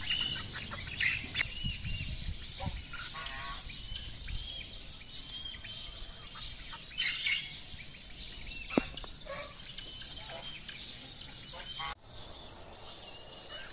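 Birds chirping with short, repeated calls, louder for a moment about a second in and again around seven seconds in.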